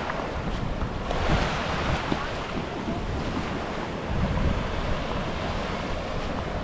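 Sea waves washing onto a rocky beach, a steady surf noise that swells a couple of times, with wind buffeting the microphone.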